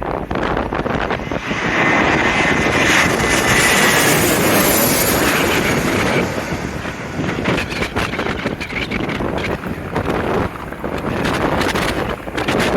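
Airliner passing low overhead on its landing approach: engine noise builds, peaks with a high whine, then eases off. Strong gusty wind buffets the microphone throughout.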